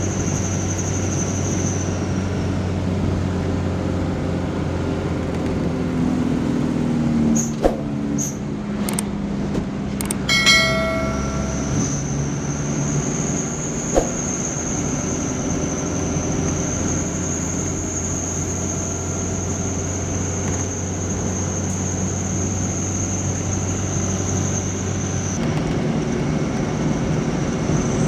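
Vehicle engine droning steadily on the road, with a thin high whine over it. About ten seconds in, a horn sounds once for just over a second.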